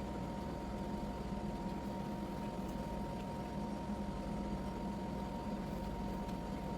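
A steady, unchanging hum with a constant low tone and a higher one, over a light hiss.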